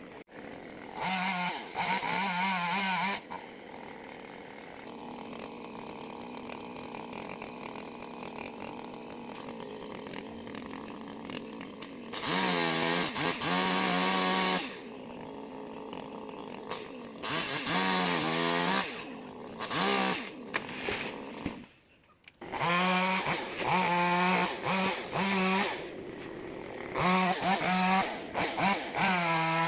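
Two-stroke chainsaw idling steadily, then revved in several full-throttle bursts as it cuts into mango wood, its pitch wavering under load. About two-thirds through it drops almost to silence for a moment before revving again.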